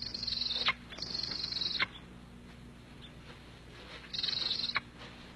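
Captured eagle calling while pinned by its handler: three high-pitched cries, each under a second, at the start, about a second in and about four seconds in, over a low steady hum.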